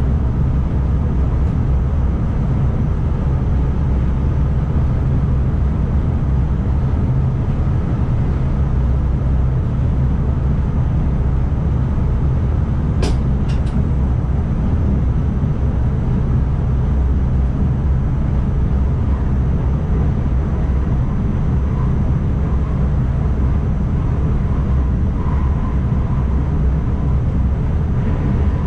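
Steady low rumble of an NS ICMm electric multiple unit running along the line, heard from inside the driver's cab, with a quick run of three sharp clicks about halfway through.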